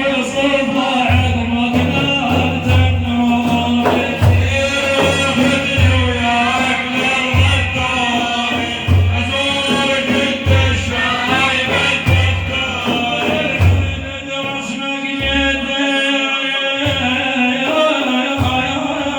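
Madih praise song for the Prophet, sung by a male voice with a steady low drumbeat under it; the drum drops out briefly near the end.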